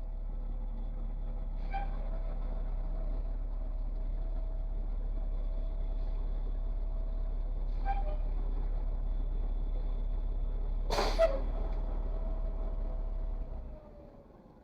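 A vehicle engine idling steadily, with three short knocks over it, the loudest about eleven seconds in. The engine sound cuts off near the end.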